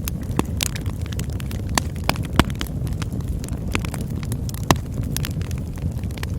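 Campfire burning with a steady low rumble and frequent crackles. Sharper pops stand out, the loudest about two and a half seconds in and near five seconds.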